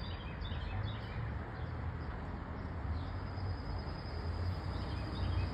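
Outdoor ambience with no speech: a steady low rumble, with faint small bird chirps and a thin steady high tone.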